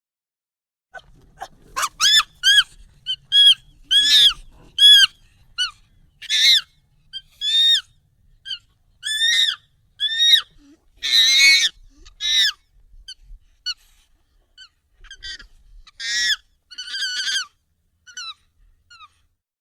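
Monkey calls, sped up and pitched up: a string of short, high, arching calls, some in quick runs, starting about a second in and thinning out near the end. One longer, harsher call near the middle is the loudest.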